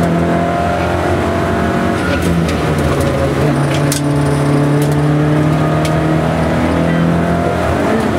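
Rally car engine heard from inside the cabin, pulling hard at speed. Its note drops with gear changes at the start and about two and a half seconds in, then holds and slowly climbs, and shifts again near the end. A few sharp clicks sound over it.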